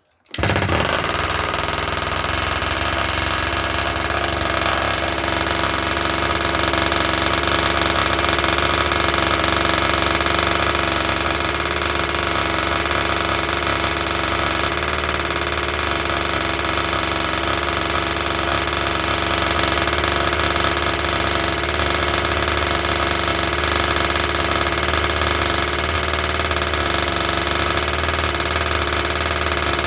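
Small two-stroke petrol engine of a Baja 5B 1/5-scale RC car, an RC Max unit, cutting in suddenly just after the start and then running at a steady speed with no revving.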